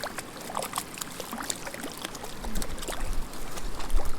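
Small shallow mountain creek running and trickling, with many small sharp splashes. A low rumble joins about halfway in.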